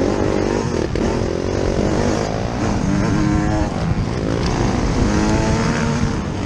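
Yamaha YZ125 single-cylinder two-stroke motocross engine heard on board, revving up and down repeatedly as the throttle is opened and closed, with a brief throttle-off just before a second in.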